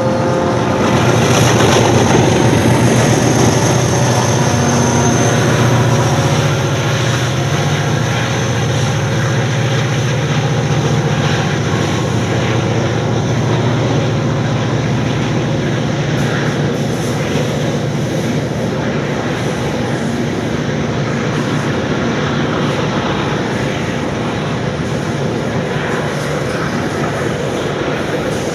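Diesel freight locomotives working hard as they pass, their engine drone strongest in the first few seconds and easing off. A long string of grain hopper wagons then rolls steadily by, with wheel-on-rail rumble and scattered clicks.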